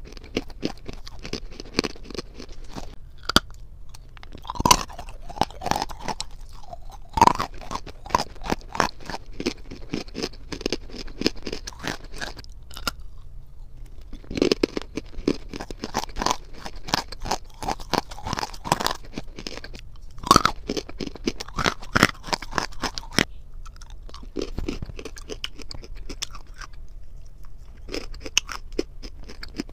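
Close-miked chewing and crunching of dry clay: a dense run of sharp crunches and crackles, broken by short pauses about halfway through and again later.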